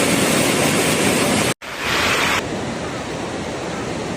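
Steady rushing noise of a typhoon's wind and water, broken by a sudden cut about one and a half seconds in, then resuming slightly quieter.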